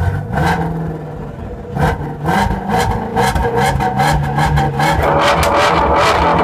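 2016 Shelby GT350R's 5.2-litre flat-plane-crank V8 revved hard through its exhaust in a series of quick blips, then held at higher revs for the last second or so.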